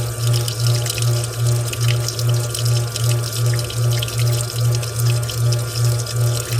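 Washing machine running with water rushing and splashing inside, over a low hum that pulses evenly about three times a second.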